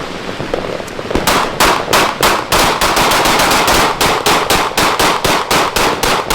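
Fireworks going off in a rapid, even string of sharp bangs, about four or five a second, starting about a second in over a crackling hiss.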